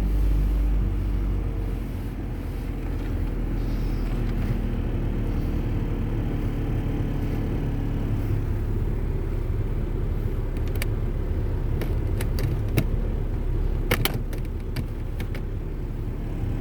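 2008 Suzuki Forenza's 2.0-litre four-cylinder engine idling steadily just after a cold start. A few sharp clicks come about two-thirds of the way through.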